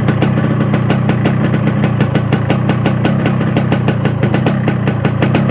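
Yamaha RX-King 135 two-stroke single-cylinder motorcycle engine running steadily, with a rapid even pulsing over a strong low drone.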